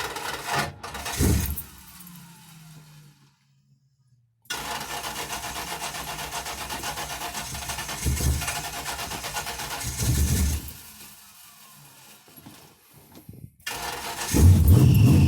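Starter cranking the cold engine of a G-body Pontiac Grand Prix on a freshly installed battery, in several separate tries. About 14 seconds in the engine catches and runs, much louder.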